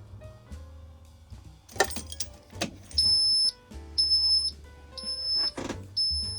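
A dashboard warning beeper on an International 4700 dump truck sounds high half-second beeps about once a second, starting about three seconds in. It is the low air pressure warning while the truck's air system is still below pressure.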